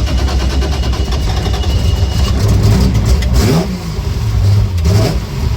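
Race-tuned Triumph TR5 straight-six engine on triple Weber carburettors running just after starting, idling unevenly, with the revs rising briefly twice, about three and a half seconds in and again near five seconds. The uneven idle comes from its high-lift racing cam.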